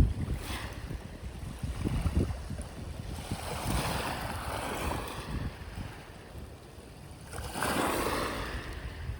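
Sea waves washing onto the shore, with two surges of hiss, a long one starting about three seconds in and a shorter, stronger one near the end. Wind buffets the microphone throughout, adding a gusty low rumble.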